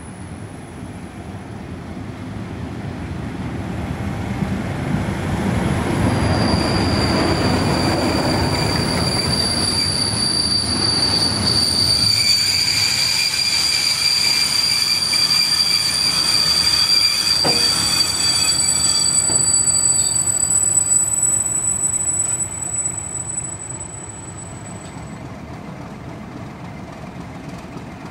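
A locomotive-hauled engineering train passing at speed. The locomotive and wheels rumble past, growing loud over the first several seconds, then the vehicles' wheels set up a steady high-pitched squeal. The squeal and rumble fade out about three-quarters of the way through, leaving a low steady running noise as the train recedes.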